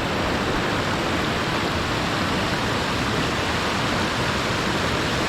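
Water rushing steadily over a creek spillway: a constant, even roar with no breaks.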